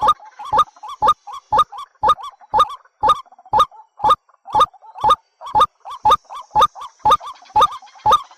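Barred rail (tikling) calling: loud, short harsh notes repeated steadily at about two per second, as played on a lure-call recording to attract rails to traps.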